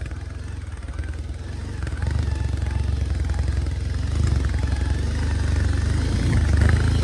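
Bajaj Pulsar 220F motorcycle's single-cylinder engine running under way, getting louder about two seconds in and again around four seconds as the throttle opens.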